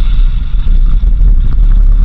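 Wind buffeting the microphone of a moving vehicle: a loud, flickering low rumble with no break.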